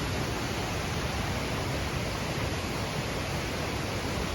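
Steady rush of flowing water, an even hiss with no breaks or separate splashes.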